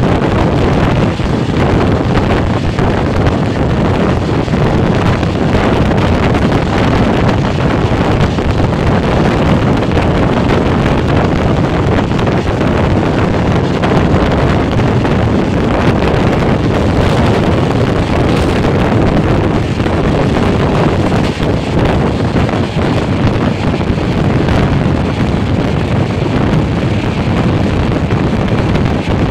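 Heavy wind buffeting the microphone over the steady running noise of an express passenger train at speed, as heard from an open coach doorway.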